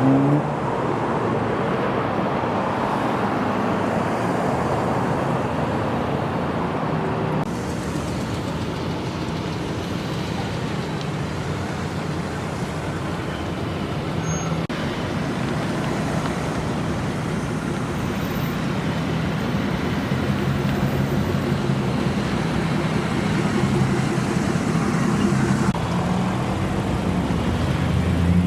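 Steady road traffic: vehicle engines running and tyre noise, with low engine hum rising and falling as vehicles pass.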